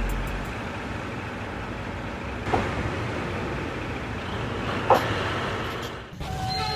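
Steady vehicle noise, with two brief sharp sounds about two and a half and five seconds in. Just before the end a steady, several-toned train horn starts.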